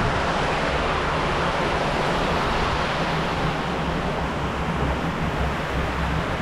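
Steady rushing noise of flowing creek water, even and unbroken, with a low rumble underneath.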